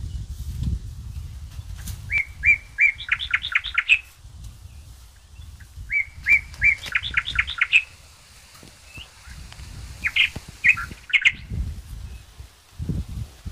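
A songbird sings the same phrase twice: three even notes, then a quick run of notes that climbs in pitch. A shorter burst of calls follows about ten seconds in. Low rustling and scuffing of footsteps through leafy undergrowth runs underneath.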